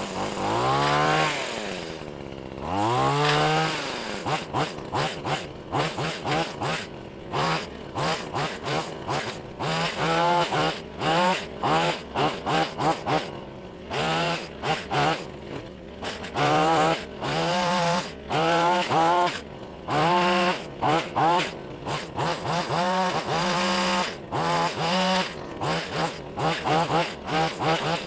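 Wild Badger gas hedge trimmer's small engine revving up twice, then blipped to full throttle over and over in short bursts, dropping back toward idle between each, as it cuts brush.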